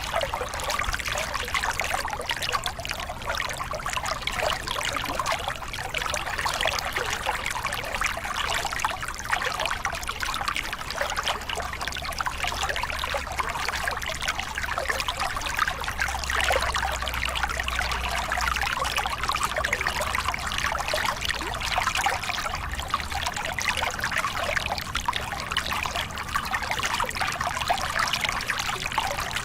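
Small river cascade: water spilling and splashing over rocks, a steady close-up trickling and burbling flow.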